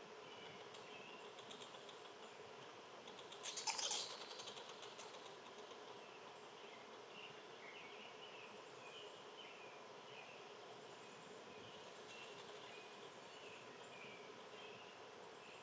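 Small birds chirping faintly, short high calls scattered all through, with a brief louder fluttery rustle about four seconds in.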